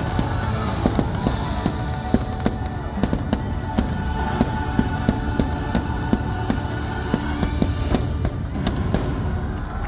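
Fireworks going off in quick succession, a steady run of sharp bangs and crackles, over the show's orchestral music.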